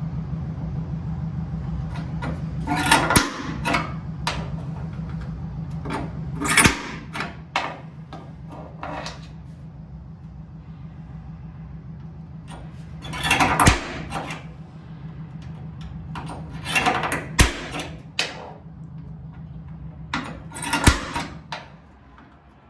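Spring-loaded automatic centre punch snapping into spot welds on a car's steel body panel: five sharp clicks a few seconds apart, each with a short scrape as the tip is placed. A steady low hum runs underneath.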